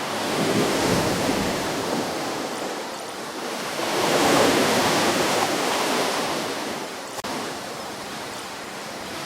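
Ocean waves breaking and washing onto the shore, two swells of surf about four seconds apart, each rising and then fading into a hiss.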